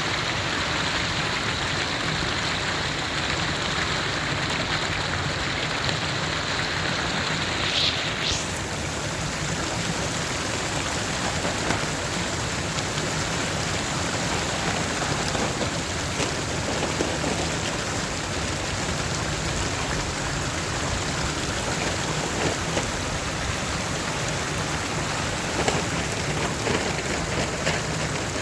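Waterfall rushing steadily: a continuous, even noise of falling water, with a few brief sharp sounds scattered through it.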